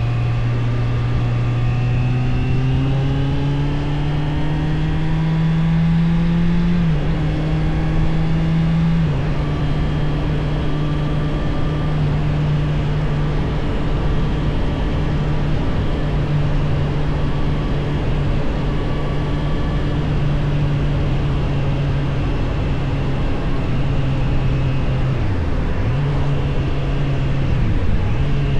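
Suzuki GSF 600 Bandit's air/oil-cooled inline-four engine pulling through the gears. The revs rise and drop twice in the first nine seconds as it shifts up, then it cruises at steady revs. Near the end the revs dip briefly twice.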